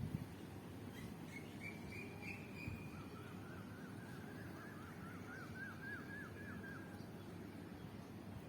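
A bird calling: a brief higher trill, then a run of repeated short chirps at a few a second. Beneath it runs a steady low background noise.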